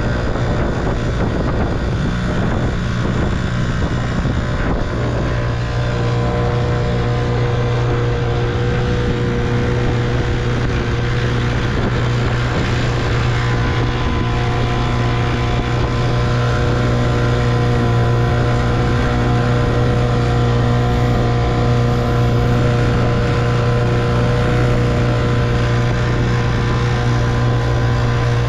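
1958 Evinrude 3 hp two-stroke outboard motor running steadily under way, pushing a small boat at a constant speed.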